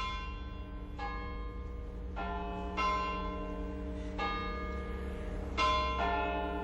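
A short tune of bell chimes: about seven notes struck one after another at uneven gaps, each ringing on and fading, over a low steady tone.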